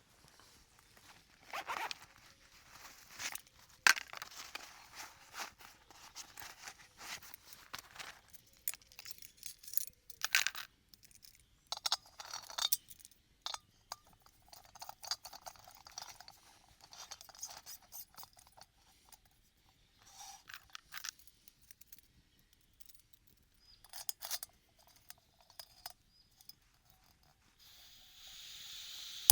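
Irregular scraping, crunching and clicking of close-up hand work, in short uneven bouts with brief pauses. A steady hiss sets in near the end.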